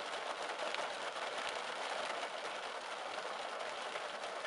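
Heavy rain pattering steadily on the roof and windshield of a parked car, heard from inside the cabin.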